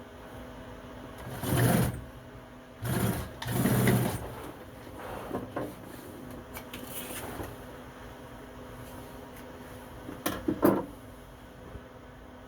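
Sewing machine running in short bursts, stitching a seat seam: three quick runs in the first few seconds and two more brief ones near the end.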